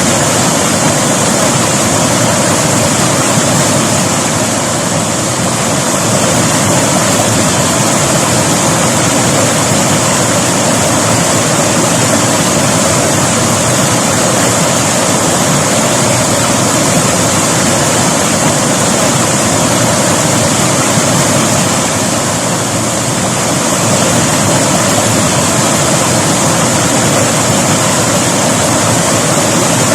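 River water rushing steadily over rocks, a loud continuous flow that eases slightly twice for a moment.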